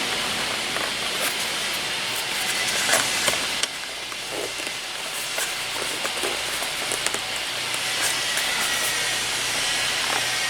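Steady hiss under scattered light clicks and knocks, as a car seat headrest is worked at and pushed into its seat guides but stays stuck.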